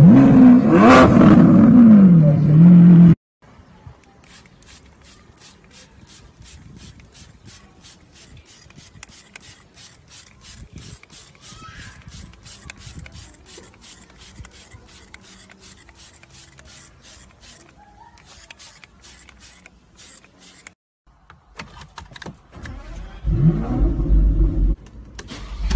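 A Lamborghini V12 revs hard, rising then falling in pitch, and cuts off suddenly about three seconds in. A long quiet stretch follows of quick, faint squirts from a trigger spray bottle, about three a second. Near the end a car engine runs loudly from inside the cabin of an Aston Martin Vanquish S.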